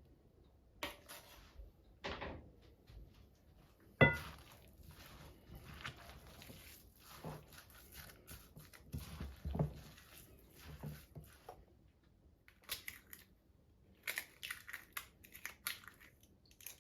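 Objects being handled: scattered knocks and clicks, with one sharp clink about four seconds in that rings briefly, and a run of quick crisp clicks near the end.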